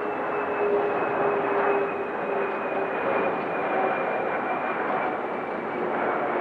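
COMAC C919 airliner's CFM LEAP-1C turbofan engines on a landing approach: a steady rush of jet noise with a high whine and a lower hum that both slowly fall in pitch.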